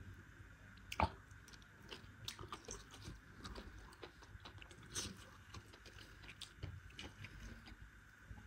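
Faint chewing and mouth sounds of a person eating rice and goat meat by hand, with scattered small clicks, the sharpest about a second in.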